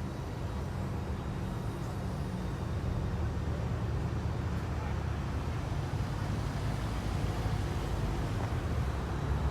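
A car being driven, its engine and road noise a steady low drone that gets a little louder about three seconds in.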